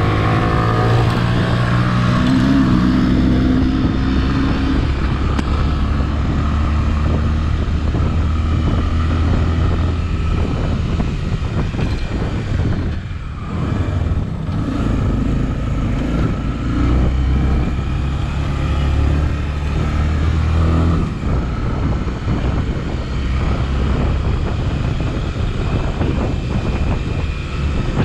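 Honda XRE300's single-cylinder four-stroke engine running while riding, held at a steady pitch, with a brief easing off the throttle about thirteen seconds in. Wind noise on the microphone throughout.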